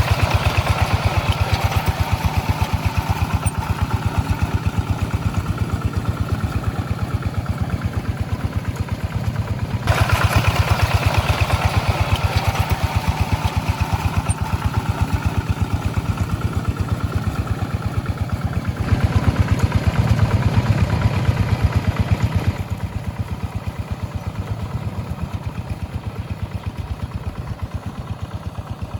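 Rice-field tractor engine running steadily with a rapid, even beat while plowing. The level jumps abruptly a few times and drops somewhat for the last stretch.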